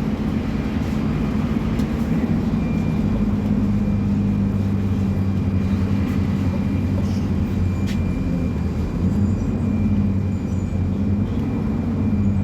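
Scania K250UB bus's diesel engine running with a steady low drone, with a faint steady high whine above it.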